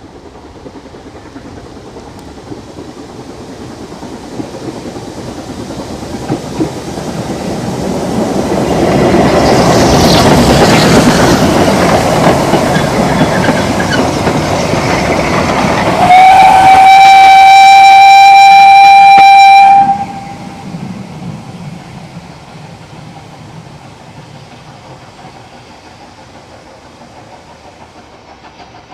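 Narrow-gauge Ffestiniog Railway steam train approaching and passing, its rumble and rail clatter building to a peak and then fading away. Midway through the passing, the locomotive's whistle gives one loud, steady blast of about three and a half seconds that cuts off sharply.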